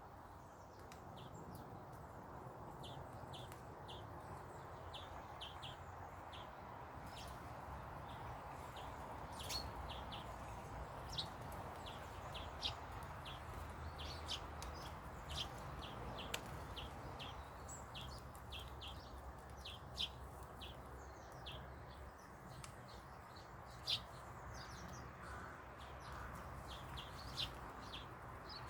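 Small birds chirping, many short high chirps in quick, irregular succession, over a steady low background hum.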